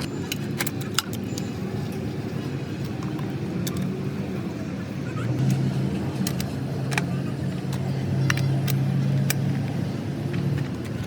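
A vehicle engine running steadily, its hum growing louder about halfway through, with scattered sharp metallic clinks of tools and parts.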